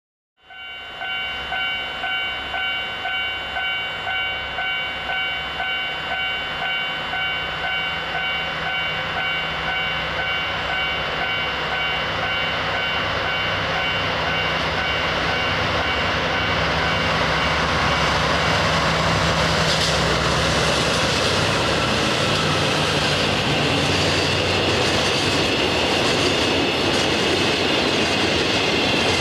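A train approaching and passing on the rails, its running noise and wheel clatter building to fill the second half. Before it, a ringing tone repeats about twice a second and fades under the train noise.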